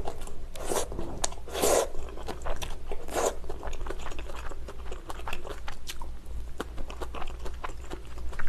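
Close-miked chewing of a mouthful of pad thai: many small wet mouth clicks, with a few louder bursts in the first three or four seconds.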